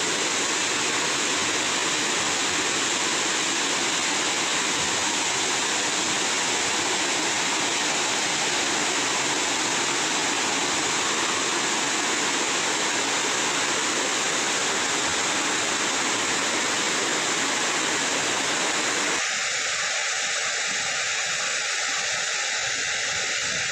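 Mae Aep Waterfall, a tall waterfall, with water pouring down in a steady, even rush. About three-quarters of the way through, the sound changes abruptly: the deeper part drops away and a faint steady tone appears.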